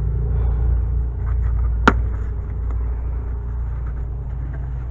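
Steady low mechanical rumble, with a single sharp click about two seconds in.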